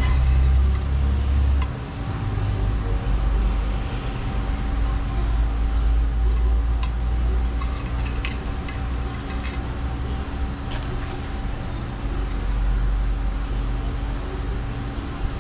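A steady low rumble with a constant faint hum runs underneath, and a few light, separate clicks of small metal parts being handled as a new water pump bottom plate is fitted onto an outboard's lower unit.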